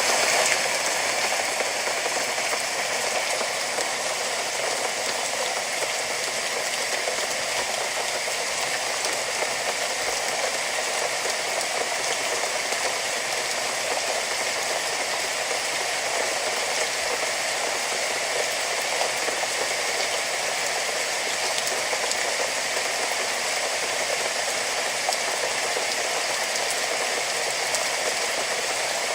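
Steady rain: a dense, even hiss of falling drops that steps up in loudness right at the start, then holds level.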